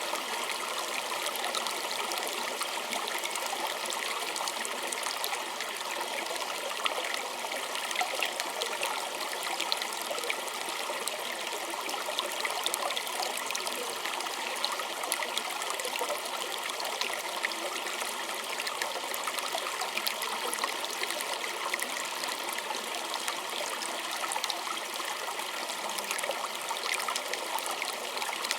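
A small stream trickling and babbling over stones: a steady rush of water flecked with many small splashes.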